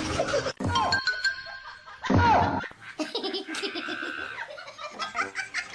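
A person laughing in quick pulses, with music, across abrupt cuts; a short loud burst about two seconds in.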